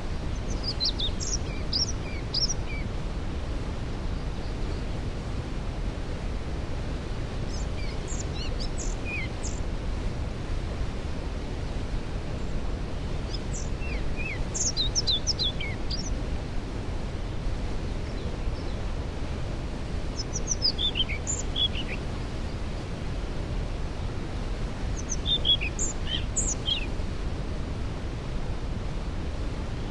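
Steady rushing of a waterfall, with a songbird singing a short phrase of quick, high, falling notes about every five to six seconds.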